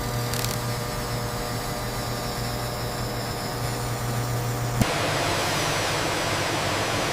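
A steady low machine hum with a few faint steady tones. About five seconds in it cuts off abruptly and gives way to an even, slightly louder hiss.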